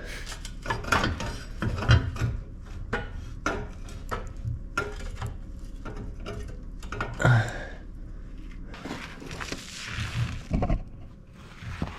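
Hand tools knocking, clinking and scraping against metal under a car while the exhaust is being taken off: a string of sharp knocks with rubbing between them, and a longer stretch of scraping near the end.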